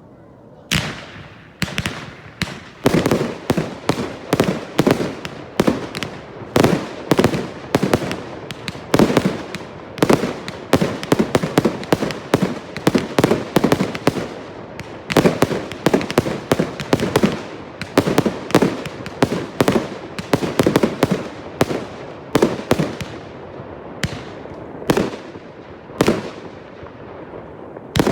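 Fireworks display: a fast run of sharp bangs from bursting shells, several a second, starting about a second in and thinning out near the end.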